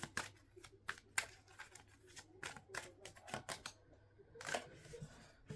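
Tarot cards being handled: scattered soft clicks and a brief rustle about four and a half seconds in as a card is drawn from the deck.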